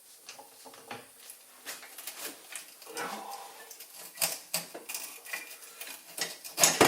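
Clinks and clanks of metal tools and suspension parts as a rear trailing arm is worked loose and lowered off, many short knocks growing louder, with the loudest clank near the end.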